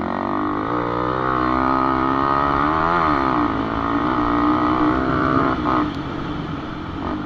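Dirt-ridden motorcycle engine revving under throttle: its pitch climbs to a peak about three seconds in, falls back, holds, then drops away near six seconds.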